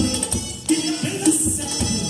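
Latin-style dance music with a steady beat, played loud through a home-built car audio speaker system.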